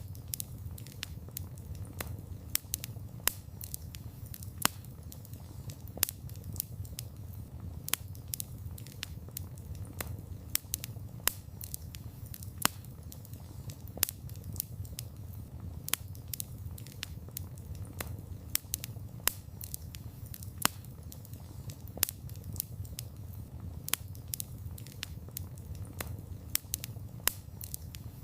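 Wood campfire burning: a steady low rumble with irregular sharp crackles and pops from the burning wood, a few every second.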